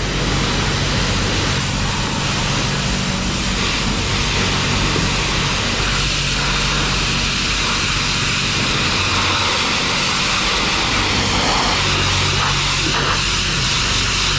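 A loud, steady rushing noise with a low, even hum underneath, like a running vehicle.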